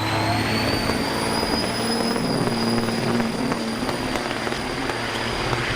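Semi truck diesel engine running hard, with a high whine that rises slightly at first and then holds steady.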